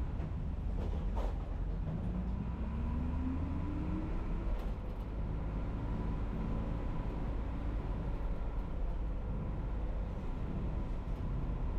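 City bus engine running with a steady low rumble; its note rises over the first few seconds as the bus accelerates, then runs on steadily.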